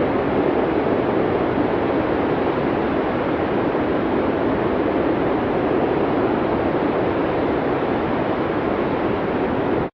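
Snowstorm wind blowing in a steady, even rush, deepest in the low middle range. It cuts off abruptly at the very end.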